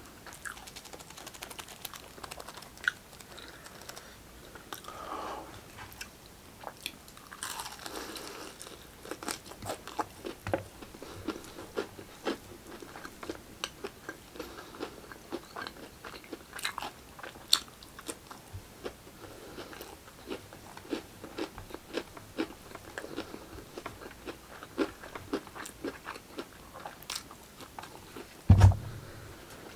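Close-miked eating of fried chicken: crunching and chewing with many short sharp clicks, and one loud thump near the end.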